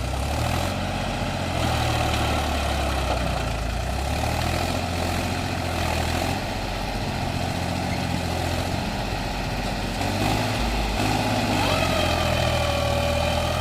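Mahindra 275 DI tractor's diesel engine running steadily.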